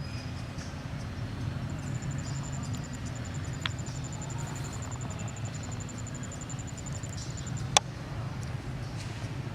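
Steady low rumble of outdoor background noise. A high, fast-pulsing trill runs through most of it, and there is a sharp click near the end.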